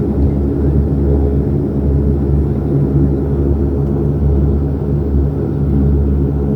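Steady cabin drone of a Saab 340's twin turboprop engines and propellers: a low rumble with several even, steady tones.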